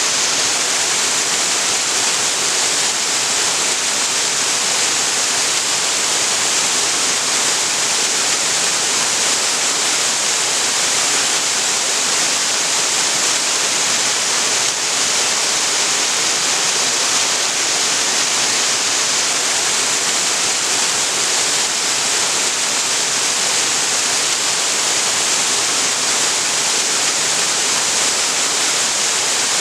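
Waterfall pouring steadily into a creek: a constant, even rush of falling water with a bright hiss.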